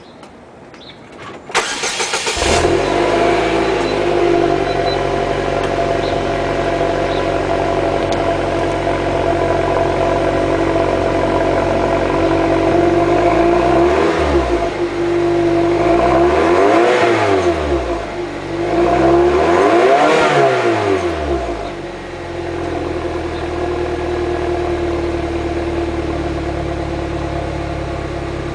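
2008 Saab 9-3 Sport with its stock exhaust cold-starting. The starter cranks briefly about two seconds in, the engine catches and runs at a steady idle, and around the middle it is revved three times about three seconds apart, each rev rising and falling. It then settles back to a steady idle.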